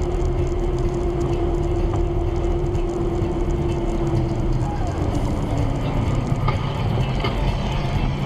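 Steady driving noise from a car picked up by a dashcam: engine and road rumble with a humming tone that drops a little in pitch about halfway through and fades out.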